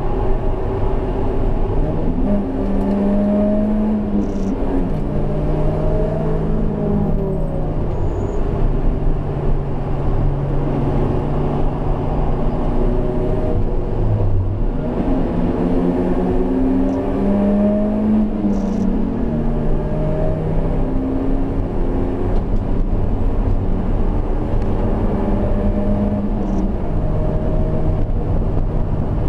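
Highly modified BMW E36 3-series engine heard from inside the stripped, roll-caged cabin, driven hard on track: the revs climb and drop back in steps as the driver shifts gears, with a deeper drop in revs about halfway through. Steady tyre and road noise runs underneath.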